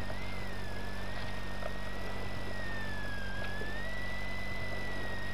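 Rally car's engine idling steadily, heard from inside the cabin. A thin high whine that wavers slightly in pitch runs over it.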